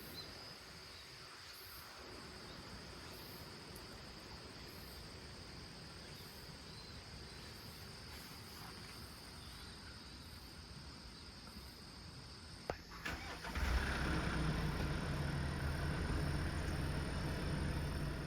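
Quiet outdoor background with a faint steady high drone; about thirteen seconds in, a click, then a vehicle engine starts running with a low steady hum.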